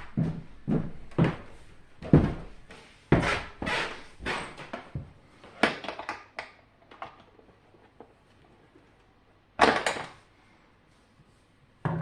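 Irregular knocks, clacks and scrapes of plastic dehumidifier parts being handled during disassembly. They come thick in the first half, thin out, and end with a sharp knock about ten seconds in and another at the end.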